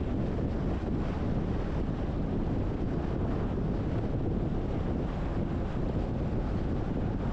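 Steady wind and road noise from a car on the move, a constant low rumble with wind buffeting the microphone.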